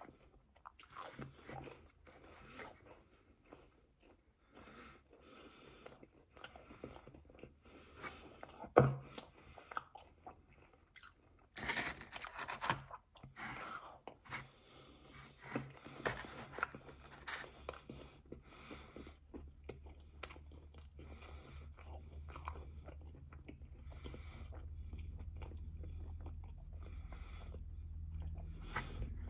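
Close-up chewing and crunching of pizza, with irregular bites and mouth clicks. A single sharp knock comes about nine seconds in, and a low hum builds up through the second half.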